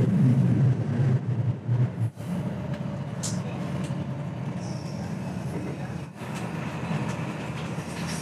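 Electric commuter train running on the rails, heard from inside the carriage: a steady low rumble of the wheels and motors.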